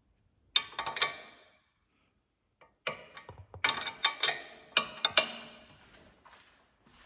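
A wrench clicking and clinking on the castellated nut of a new lower ball joint. There is a short burst of metallic clicks about half a second in, then a longer run of clicks from about three seconds to six seconds.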